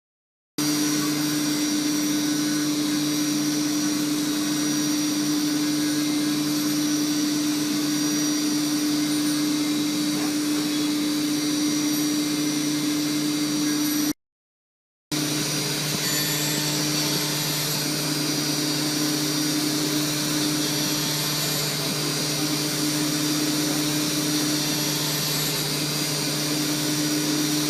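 4-axis CNC milling machine running steadily: an even whirr with a steady hum, broken by about a second of silence near the middle before it resumes.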